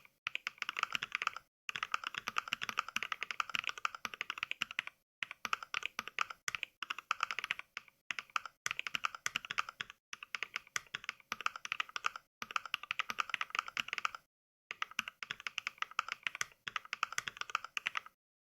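Keystroke sounds from the Mechvibes app's NK Cream mechanical-switch sound pack, triggered by fast touch typing: long runs of rapid clicks broken by brief dead-silent pauses between words or lines.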